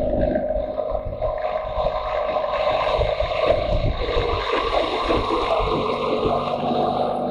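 Motorcycle engine running steadily on the move, with wind noise over the microphone.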